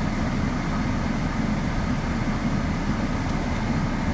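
Steady low rumble of an idling vehicle engine, even and unchanging.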